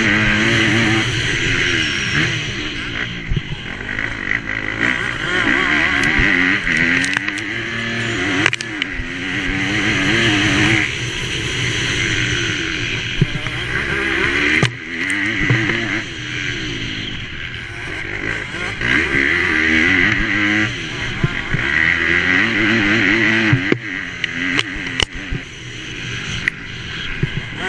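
MX2-class motocross bike engine racing, its pitch climbing and dropping again and again as the throttle is opened and shut through the track, with rushing noise and scattered short knocks.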